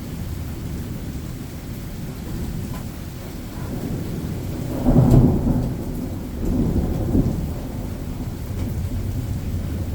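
Thunder rumbling over steady rain. The rumble swells to its loudest about halfway through, then rolls again a second or two later.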